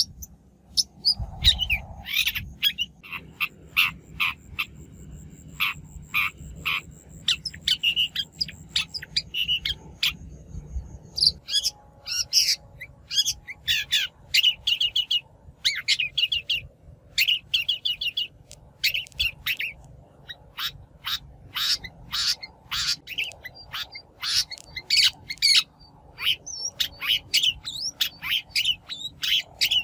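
Long-tailed shrike calling: quick runs of short, scratchy call notes with brief pauses between runs. It is a lure call of the kind played to draw in wild shrikes.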